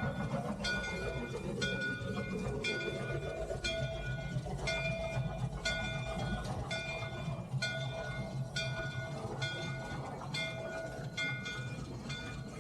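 A bell ringing steadily, about two strokes a second, over the low steady rumble of a running steam locomotive.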